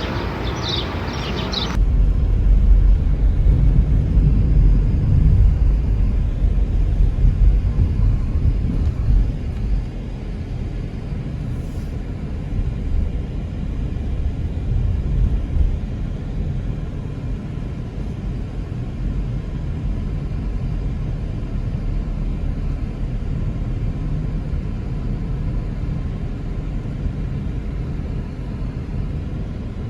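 A few high chirps, then an abrupt change about two seconds in to a steady, low rumble that lasts to the end and is loudest in the first several seconds.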